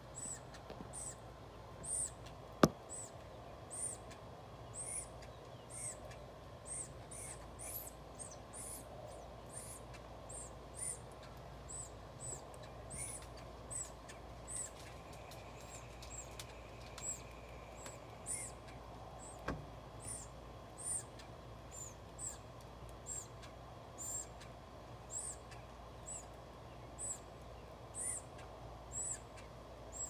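A bird giving short, high-pitched chirps over and over, about one or two a second, over a faint steady low hum. A sharp click a few seconds in, the loudest moment, and another about two-thirds of the way through.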